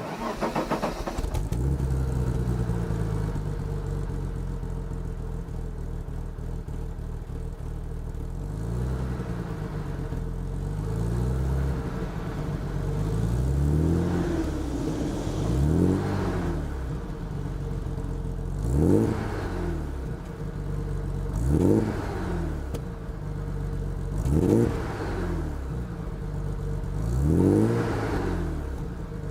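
Exhaust of a BMW M30B30 3.0-litre straight-six as it starts, settles into an idle, then is revved in a series of short blips, about six of them spaced two to three seconds apart in the second half.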